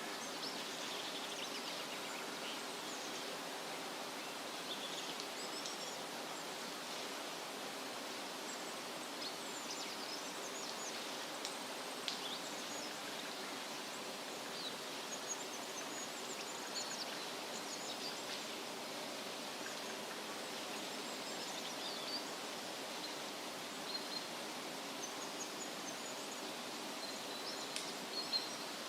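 Wind rustling through tree leaves as a steady hiss, with songbirds chirping in short, scattered high calls throughout and a few brief sharp ticks.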